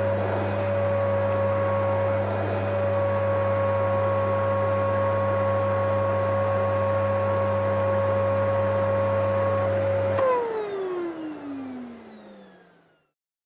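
Vacuum cleaner running steadily with a high motor whine. About ten seconds in it is switched off, and the motor winds down in a falling whine that fades out over about three seconds.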